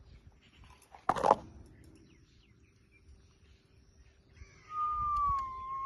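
A parrot gives one short, harsh squawk about a second in, then near the end a long, clear whistle that dips slightly in pitch and then rises.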